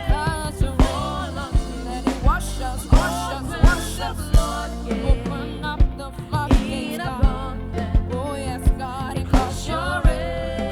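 Gospel worship music from a live band: a steady drum beat under sustained bass and keyboard chords, with a wavering melody line carried over the top.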